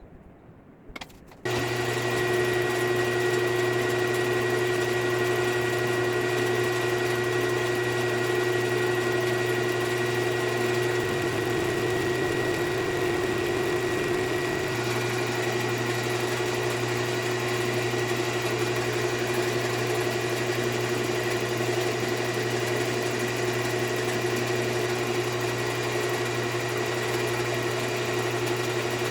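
Milling machine motor starting up about a second and a half in, then running with a steady hum.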